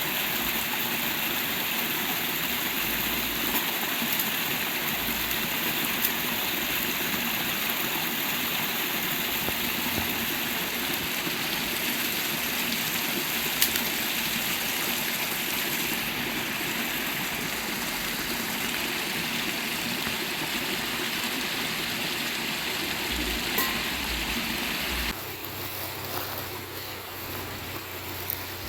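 A shallow forest river running steadily with a continuous rushing sound. There are a few faint ticks, and the level drops suddenly about three-quarters of the way through.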